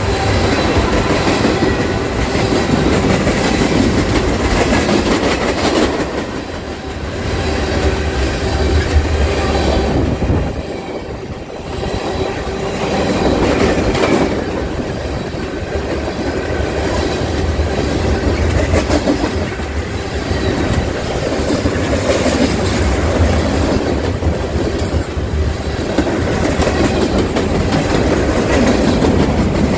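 Freight train's tank cars and covered hoppers rolling past at close range: steel wheels clattering over rail joints over a continuous rumble, the sound dipping briefly about eleven seconds in.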